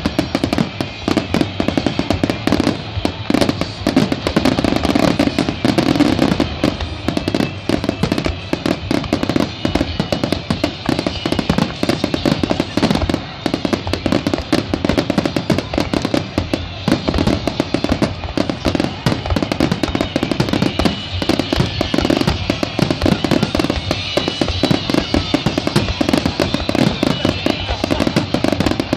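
Aerial fireworks shells bursting in quick succession, a dense, continuous stream of bangs and crackles with no pause.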